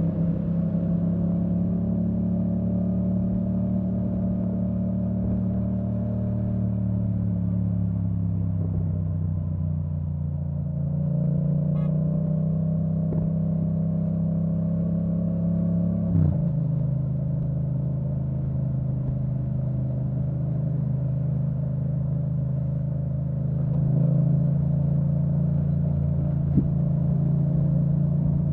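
2017 Yamaha MT-07's parallel-twin engine through an Akrapovic full titanium exhaust with the dB-killer removed, heard on the move. The engine note sags slowly for the first ten seconds and then climbs again. About sixteen seconds in it drops sharply at an upshift, then rises once more near the end.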